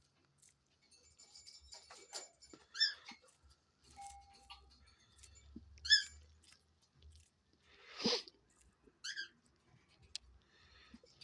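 Three short, high chirps a few seconds apart, with scattered clicks and taps of a dove's beak pecking seed from a hand, and a louder brief rustle about eight seconds in.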